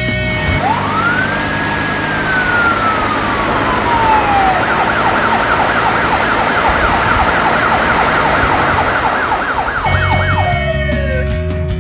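Emergency-vehicle siren sound effect: one slow wail that rises and then sinks away, then switches about five seconds in to a fast yelp, and winds down near the end.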